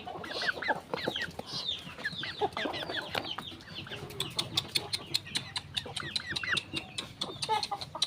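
A flock of chickens clucking, many short calls overlapping. A rapid run of sharp clicks joins in over the second half.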